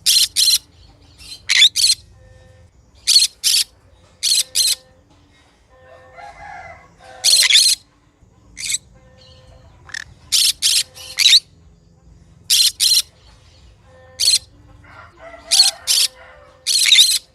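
Green conure screeching: short, loud, sharp calls, often two in quick succession, repeated every second or so, with softer chattering around a third of the way in and again near the end.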